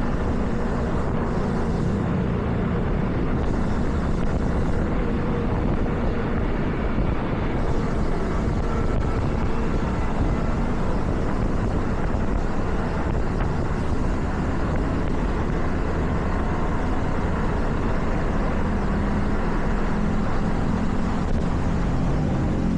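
Steady road noise of a car driving on wet pavement: tyre hiss over a low engine and road drone, with no sudden events.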